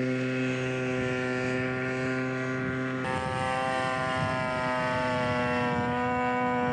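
Engine of a radio-controlled scale model airplane running steadily in flight, a droning buzz. About three seconds in the tone changes abruptly, then its pitch sinks slightly.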